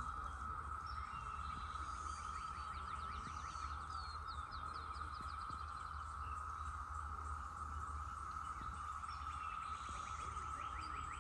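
Brood X periodical cicadas in a dense chorus: a steady, unbroken drone. A bird sings short runs of quick chirps over it, from about two seconds in and again near the end.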